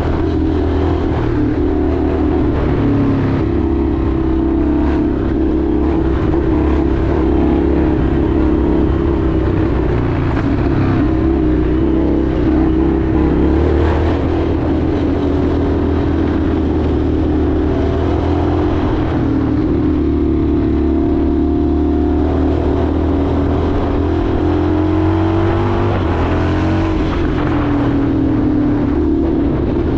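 Indian FTR 1200's V-twin engine running under way on a ride, its note held fairly steady, dipping a little past the middle and climbing again near the end as the throttle changes.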